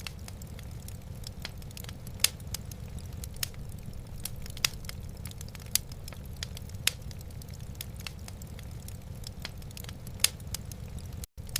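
Wood fire burning in a fireplace: sharp crackles and pops, several of them loud, over a steady low rumble. The sound cuts out for an instant near the end.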